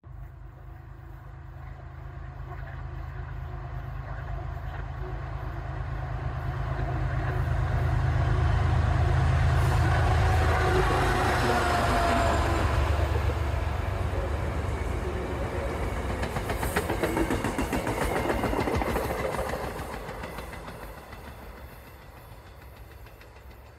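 MBTA commuter rail train passing at speed. The diesel locomotive's low engine drone builds as it approaches and is loudest about ten seconds in. The wheels then clatter over the rails as the bilevel coaches go by, and the sound fades away as the train recedes.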